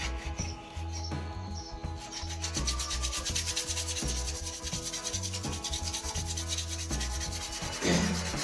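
Sandpaper rubbing along a new wooden snooker cue shaft, a fast, even scratching that grows stronger about two seconds in. A brief louder falling sound comes near the end.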